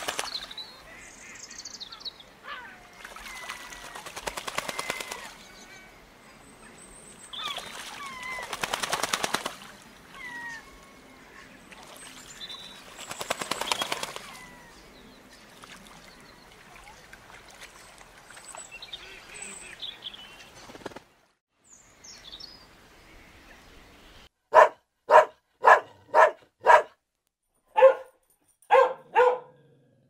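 Young Weimaraner dog barking, a quick run of about eight sharp barks near the end, roughly two a second. Before it, small birds chirp faintly over bouts of rushing noise.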